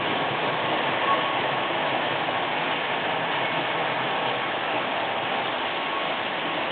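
Märklin model train running on the track: a steady, even noise of wheels and drive gearing.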